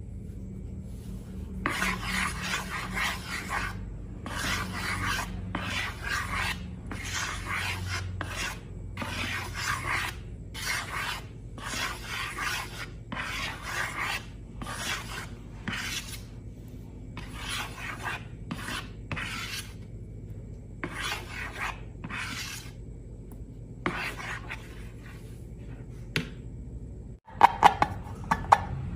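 Rasping, rubbing strokes repeated roughly once a second, then a brief dropout and a few sharp clicks near the end.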